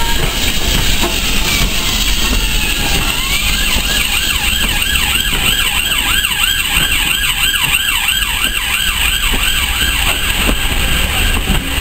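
A steam-hauled train of coaches rolling past close by on the next track, with a steady rumble. Through the middle of the passage a wavering squeal from the moving train repeats about three times a second, then fades.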